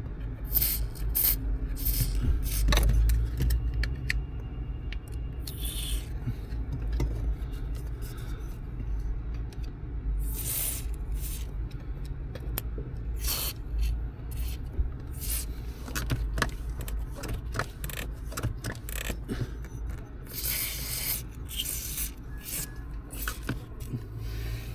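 Aerosol silicone lubricant spray hissing in several short bursts up at a VW T4 van's clutch pedal mechanism to quiet a squeak, amid many scrapes and clicks of handling in the footwell.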